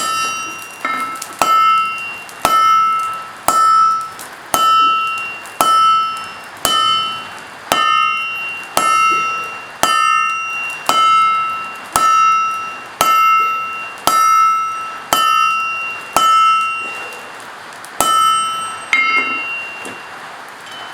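Blacksmith's hammer striking hot steel on an anvil at a steady pace of about one blow a second, each blow leaving the anvil ringing. After a short pause near the end come two last blows, and the hammering stops.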